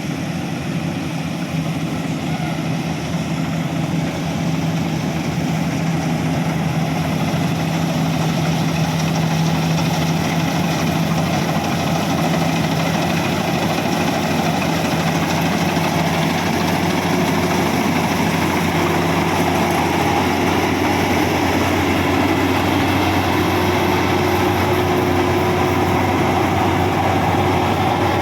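Rice combine harvester's engine running steadily under load, its note shifting partway through.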